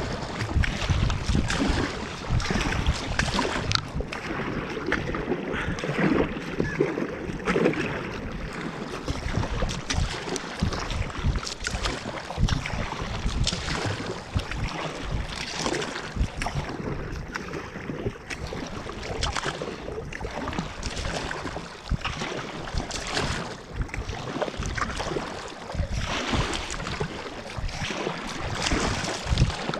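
Kayak paddle strokes splashing in lake water, a run of short splashes at uneven spacing, with wind rumbling on the microphone.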